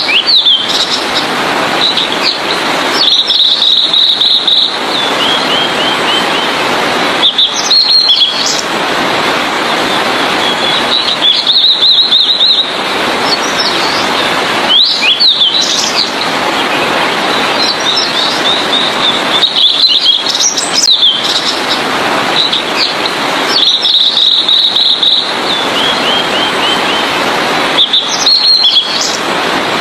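Blue-and-white flycatcher singing: short phrases of rapid trilled notes and quick descending note series, repeating every few seconds over a steady hiss in the background.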